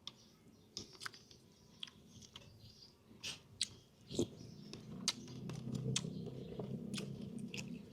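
A person chewing a mouthful of chicken close to the microphone, with scattered wet mouth clicks and smacks. From about halfway through, the chewing gets steadier and louder.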